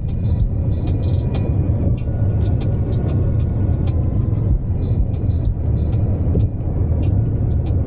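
Car driving, with a steady low engine and road rumble and quick, sharp high ticks throughout.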